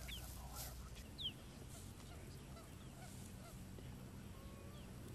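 Wild birds calling: a few short, sharp calls that slide down in pitch, the loudest about a second in, over faint outdoor background and a steady low hum.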